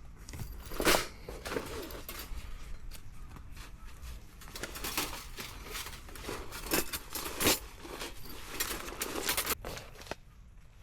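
Irregular rustling and crinkling handling noises, with several sharp knocks, the loudest about a second in and again near the middle.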